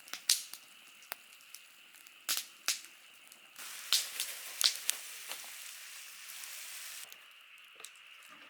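Wood fire crackling, with sharp irregular pops and a hissing stretch from about three and a half to seven seconds in.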